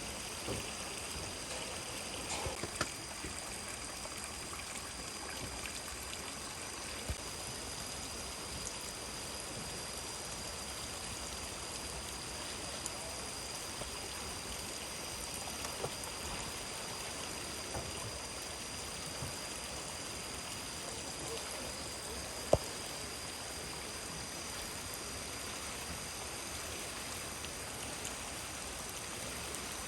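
Steady rush of flowing stream water, with a faint steady high tone above it. A few light clicks, the sharpest a single knock about three-quarters of the way through.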